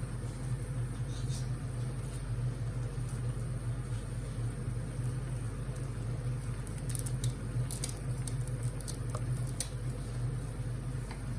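A few light clicks and rustles as softened noodles are cut, clustered between about seven and ten seconds in, over a steady low hum.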